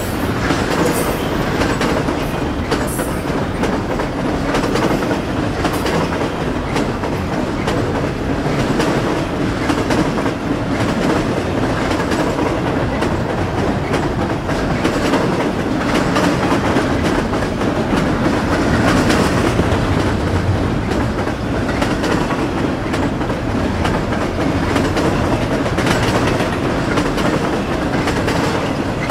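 Double-stack intermodal container cars of a long BNSF freight train rolling past close by: a steady rumble and rattle, with wheels clicking over rail joints and a faint high wheel squeal now and then in the first few seconds.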